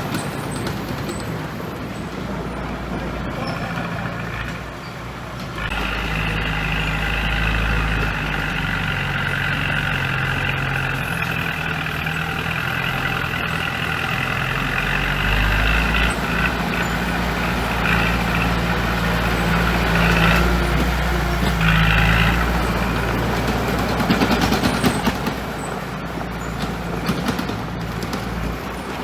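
Heavy diesel engine of earthmoving machinery (a bulldozer or dump truck) running steadily. It picks up and works harder about six seconds in.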